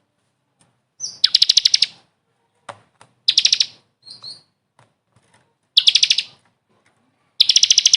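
A songbird singing in short bursts of rapid, high trills, four bursts about two seconds apart, with a few brief single chirps between them.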